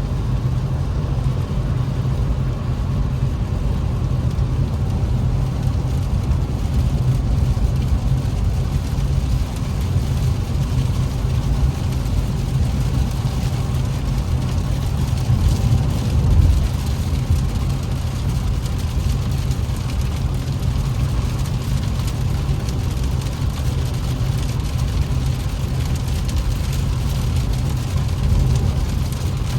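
Inside the cabin of an Infiniti Q50 driving in heavy rain: a steady low drone from the engine and tyres, with the hiss of rain on the car over it. There is a brief swell about halfway through.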